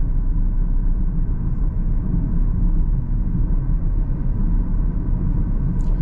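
Steady low rumble of road, tyre and engine noise inside a Mahindra XUV300's cabin while it is being driven.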